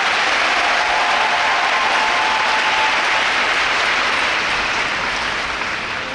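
Arena audience applauding steadily, dying down over the last second or two.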